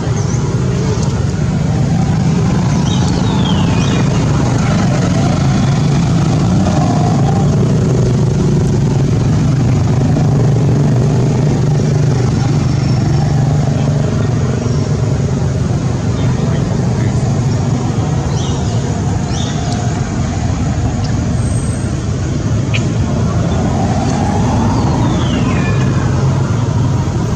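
A motor vehicle engine running steadily, a constant low hum, with a few faint high squeaks that slide in pitch.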